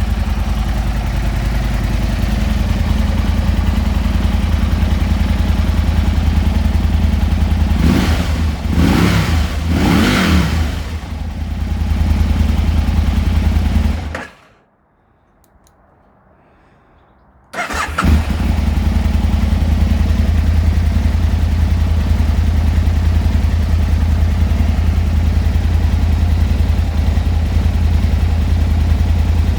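Aprilia Tuono 1000 R's 1000cc V-twin idling, blipped a few times about a third of the way in. It is then switched off and, after a few seconds of quiet, restarted and left idling steadily.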